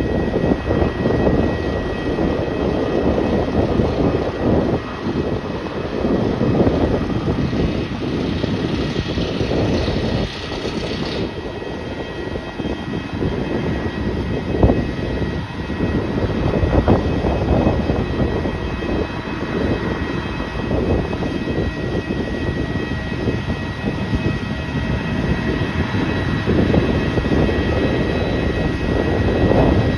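Jet airliner engines running: a continuous rumble with steady high-pitched whines. The upper hiss drops away about a third of the way in.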